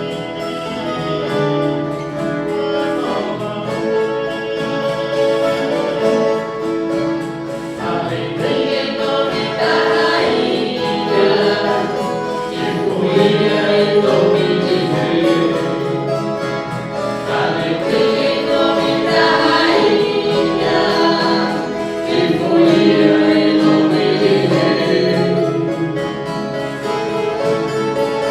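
Group of voices singing a Christmas song in harmony, accompanied by violas caipiras.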